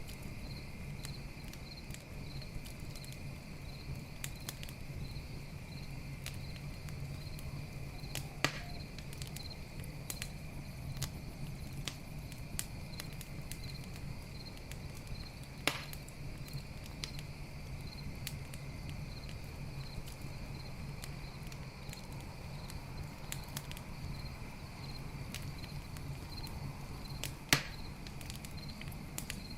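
Campfire crackling with many small ticks and three loud, sharp snaps of burning wood. Under it runs a night insect chorus: a steady high chirring and a regularly pulsing chirp, with a steady low drone.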